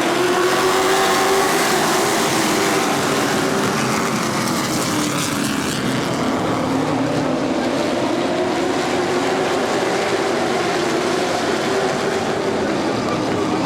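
Street stock race cars running on a short track, several engines blending together, their pitch falling and then rising again about halfway through.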